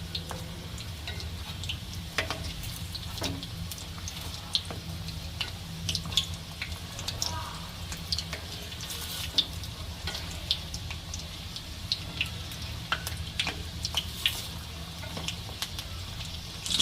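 Breaded snacks deep-frying in hot oil in a karai: a steady sizzle with scattered crackles and pops, over a low steady hum.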